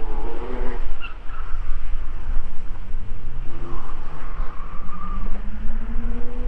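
Porsche Cayman R's flat-six engine pulling hard under acceleration, its pitch climbing steadily through the gear, over a heavy low rumble.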